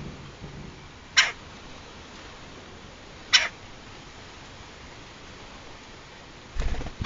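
Woodpecker calling: two short harsh calls about two seconds apart. A low rumble near the end.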